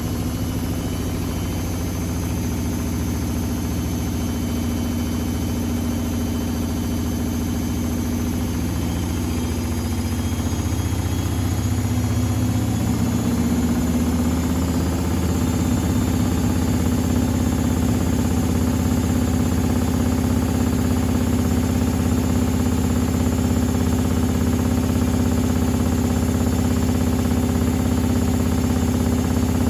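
Privileg Sensation 952 S top-loader washing machine spinning with a steady motor hum and drum vibration. About halfway through, the pitch rises as the drum speeds up, then holds a little louder.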